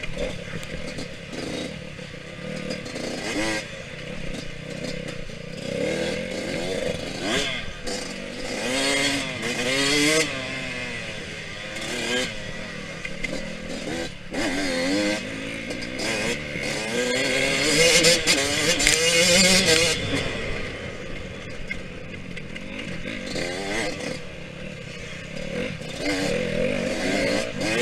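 Yamaha YZ125X 125cc two-stroke single-cylinder dirt-bike engine being ridden hard, its pitch rising and falling again and again as the throttle is opened and chopped through the gears. It is loudest about two-thirds of the way in.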